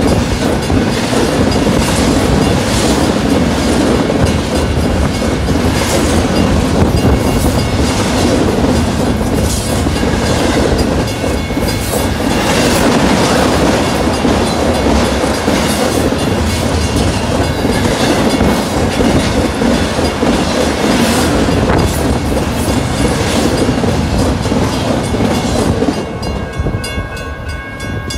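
BNSF double-stack intermodal freight cars passing close at about 70 mph: a loud, steady rush of wheels on rail with rapid clickety-clack as the trucks cross rail joints. Near the end the train noise drops as the last cars go by, leaving the grade crossing's warning bell ringing.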